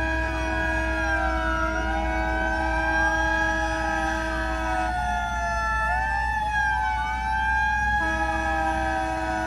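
Several fire truck sirens wailing at once, their rising and falling tones overlapping, over a steady low hum.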